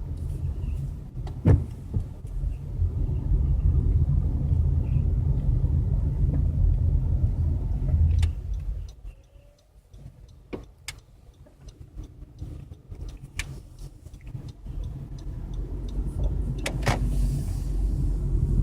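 Car driving: a steady low rumble of engine and road noise. It falls away sharply about nine seconds in, then builds again toward the end, with a few sharp clicks along the way.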